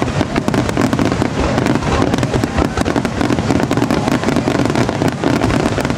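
Aerial firework shells bursting in a fast, continuous barrage: many bangs and crackles overlapping, with no let-up.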